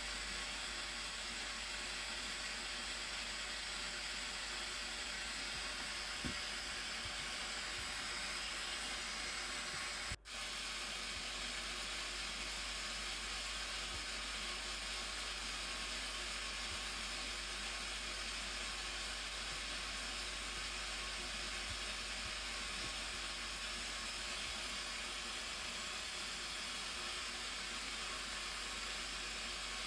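Steady rushing of the Blue Nile Falls, an even unbroken hiss of falling water, cut off for an instant about ten seconds in.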